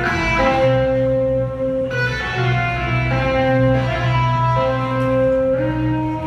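Live rock band playing, led by electric guitar holding long sustained notes that change pitch every second or so over a steady low drone.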